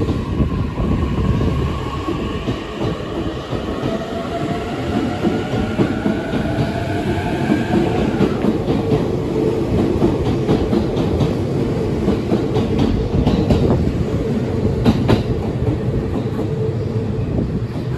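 Narita Express E259 series electric train pulling away, its traction motors whining in a tone that rises steadily in pitch for the first eight seconds or so as it accelerates. Under the whine there is a heavy rolling rumble, and later wheels clack over rail joints as the cars go by.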